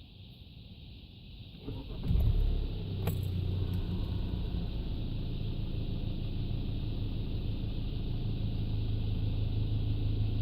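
Car engine starting about two seconds in, then running at a steady idle.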